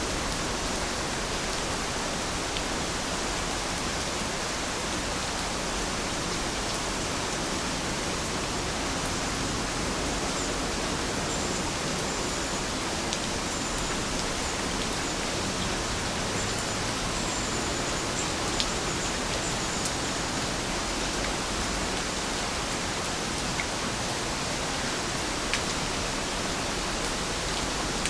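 Heavy rain falling in a steady, even hiss, with a few sharper drop ticks now and then.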